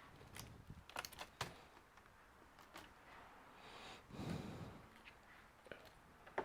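Faint light clicks and taps from a laptop being handled, a cluster of them about a second in and a couple more near the end. A soft breath-like whoosh comes a little past the middle.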